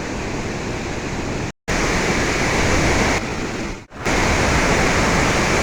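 Waterfall in heavy rainy-season flow: a steady, dense rush of falling water. The sound cuts out briefly about one and a half seconds in and dips again near four seconds.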